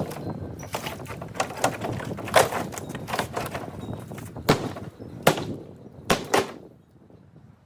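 A string of sharp knocks and clatters at irregular spacing, like wood being broken up and handled during demolition, over a steady rushing background that drops away near the end.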